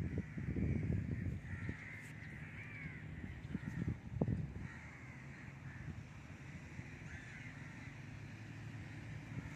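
Birds calling again and again in short arched calls, about one a second, over low rumbling noise that swells near the start and again about four seconds in.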